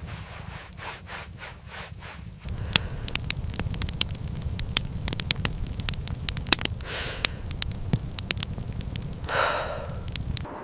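Fire crackling: irregular sharp pops and snaps over a low steady rumble, with a brief rushing swell near the end.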